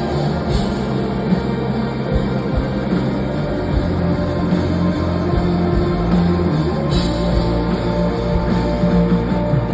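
Live band playing a rock song with a drum kit, in an instrumental stretch without vocals.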